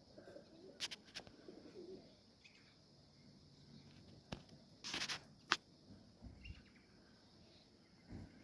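Faint cooing of domestic pigeons, with several sharp short claps or clicks, the loudest about five seconds in.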